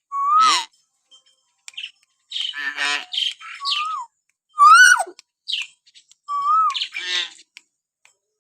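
Hill myna calling: a string of short, clear whistles that swoop up and down, alternating with harsh, rasping squawks, with brief pauses between calls.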